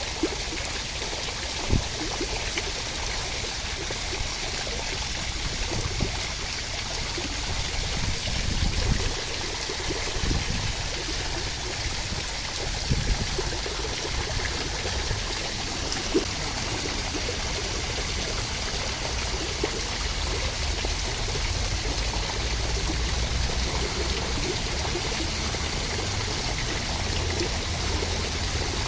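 Steady rainfall, an even hiss of falling rain with a few sharper drop hits now and then.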